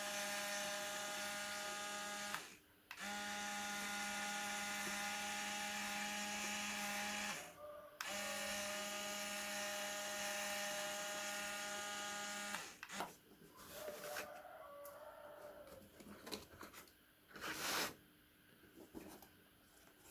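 Small electric motor whining steadily, switched on and off: three runs of a few seconds each with brief stops. After it stops come clicks and handling rustles, with one louder rustle or knock near the end.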